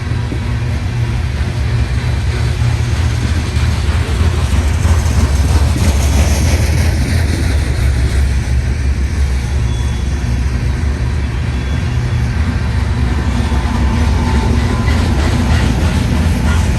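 CSX coal train rolling past with a steady, heavy low rumble. Rhythmic wheel clicks over the rail joints come in near the end.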